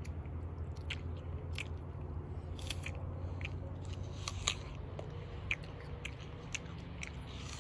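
A child chewing a mouthful of apple, with scattered short, crisp crunches, over a steady low hum.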